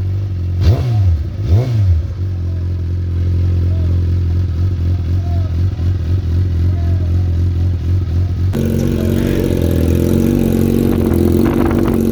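Superbike engine idling, blipped twice in quick succession about a second in. About eight and a half seconds in, the sound switches abruptly to a different, busier engine idle.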